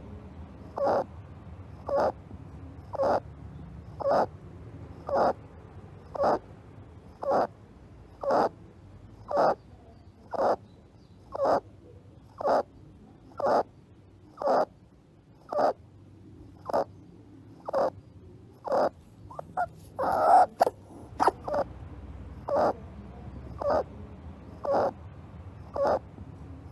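An animal giving short calls at a steady pace of about one a second, with a louder, rougher burst of calls about twenty seconds in.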